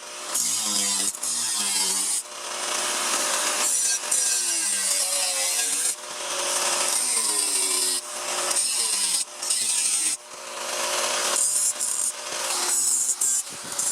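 Repeated rasping strokes of a hand tool sawing or filing sheet metal for a car body repair panel. Each stroke lasts one and a half to two seconds and builds in loudness, with a ringing pitch that bends during the stroke, then breaks off briefly before the next, about eight times.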